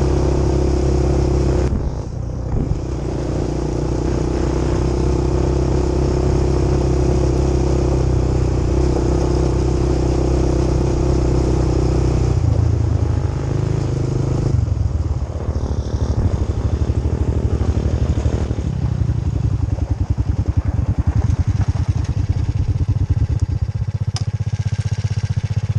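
Quad bike engine running while riding, with throttle changes about two seconds in and again around twelve to fifteen seconds in. In the last several seconds it settles into a slower, lower pulsing run as the bike slows down.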